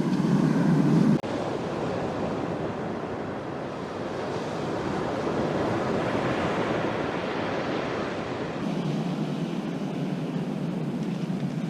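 Ocean surf: a steady wash of breaking waves that swells about halfway through, with a low drone underneath in the first second and again in the last few seconds.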